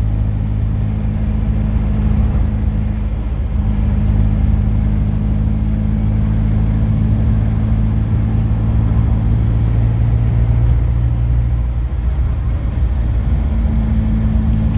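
Car engine and road noise heard from inside the cabin while driving, a steady low drone. The engine note wavers briefly about twelve seconds in.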